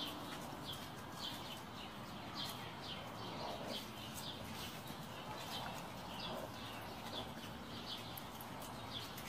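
A bird chirping over and over, short falling high chirps about two a second, faint over a steady outdoor background.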